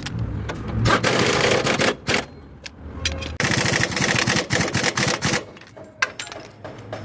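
Pneumatic impact wrench hammering in two bursts, a short one about a second in and a longer one of about two seconds, working a fastener on the van's front suspension.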